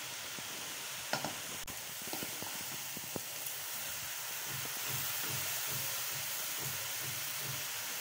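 Grated carrots and sugar sizzling in hot ghee in a steel kadai with a steady hiss, while a wooden spoon stirs them, giving a few light knocks and scrapes against the pan.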